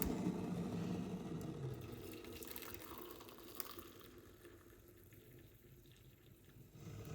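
Running water, a steady rushing noise that fades over several seconds and swells again near the end.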